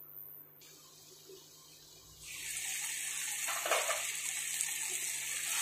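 Mushroom and vegetable curry sizzling in a frying pan: faint at first, then about two seconds in a steady sizzling hiss starts up and holds, with one soft knock partway through.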